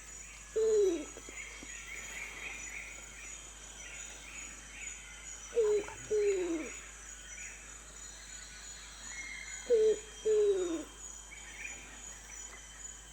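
Rainforest wildlife ambience. A bird gives low calls that slide down in pitch, once and then twice in pairs, over faint chirping and a steady high insect buzz.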